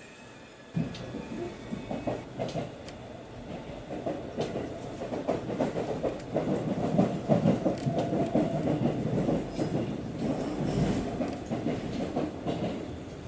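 Aichi Loop Railway electric train running on the rails, its wheels and carriage clattering and rattling. The clatter starts abruptly about a second in and grows louder.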